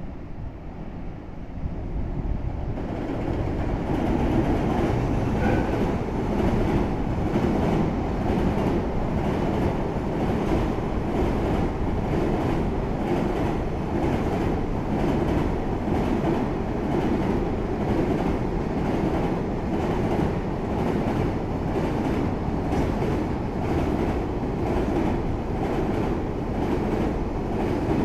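An EF210-hauled container freight train passing through a station. Its noise builds over the first few seconds as the train arrives, then settles into a steady run of wheel clatter as the container wagons go by.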